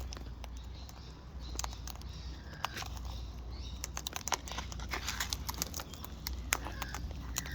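Cockatoos eating seed: irregular small clicks and cracks from their beaks working the seed husks, with a couple of faint short chirps.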